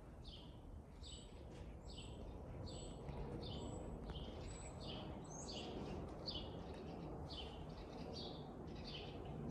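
A small bird chirping over and over, one short high chirp about every two-thirds of a second, over a faint low background rumble.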